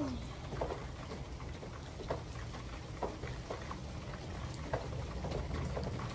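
Steady rain falling, with many small scattered clicks and crackles.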